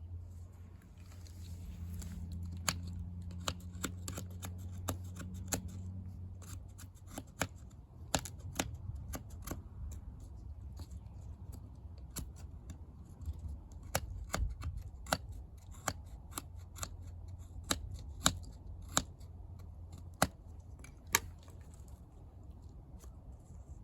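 Wood fire crackling in a bucket fire pit: irregular sharp snaps and pops, a few louder ones near the end, over a low steady hum.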